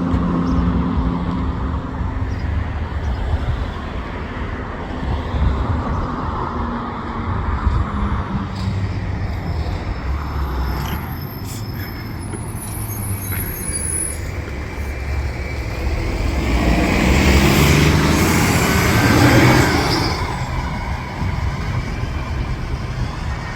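Cummins ISL9 diesel engine of a 2020 Gillig Low Floor transit bus running under way, over steady road noise. About two-thirds of the way through it swells louder for a few seconds, its pitch climbing, then settles back.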